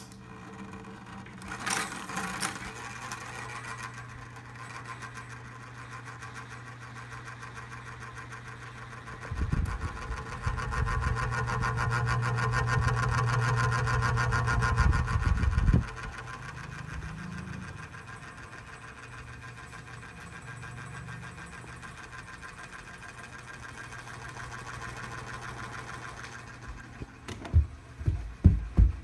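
A 12V DC mini ceiling fan running, its small motor giving a steady hum with a fast, even chatter. Partway through, a louder stretch of several seconds adds a low rumble. Several sharp knocks come near the end.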